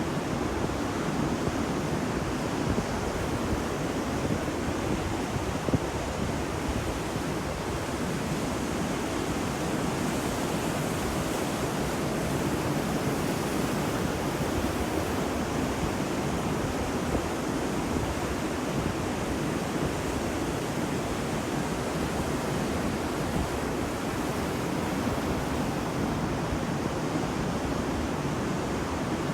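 Ocean surf washing onto a beach, a steady rushing wash of waves with only slight swells in loudness, and some wind.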